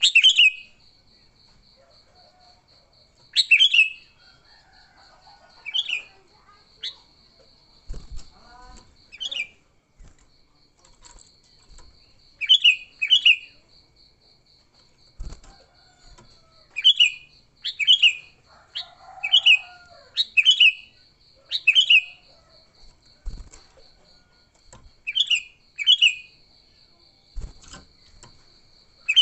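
Sooty-headed bulbul (kutilang) giving short, loud, clipped calls, singly and in quick pairs, every second or two. This is the excited, aggressive 'fighting' call that draws in and provokes other bulbuls.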